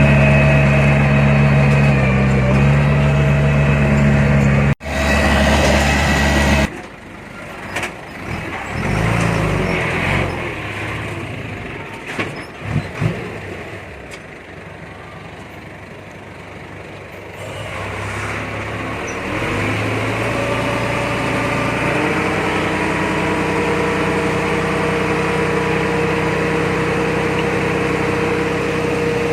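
Heavy diesel engine of earthmoving machinery running loud and steady, then breaking off abruptly. A quieter stretch follows with a few sharp knocks, then an engine sound builds up again and settles into a steady run.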